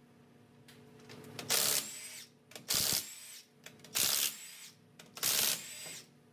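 A power tool, such as an impact wrench or electric ratchet, run in four short bursts about a second apart, each ending in a falling whine as the motor winds down.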